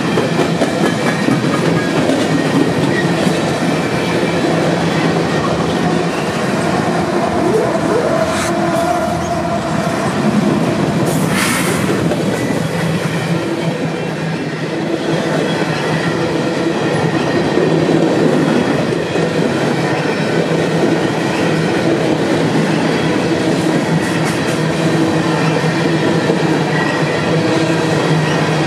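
Union Pacific freight train's hopper cars rolling past close by at speed: a loud, steady rumble and rattle of steel wheels on the rails, with the clickety-clack of wheels over the rail joints.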